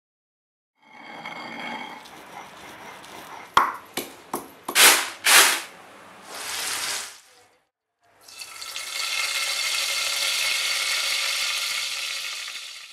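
A run of kitchen sounds: a rustling trickle at first, then sharp clicks and a few loud crunches, and after a short break a steady sizzle of food frying in oil in a pan for the last five seconds.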